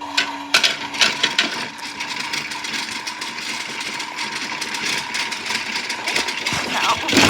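Toy washing machine's small electric motor switching on and running its wash cycle: a steady whirring hum with plastic rattling and clicking throughout.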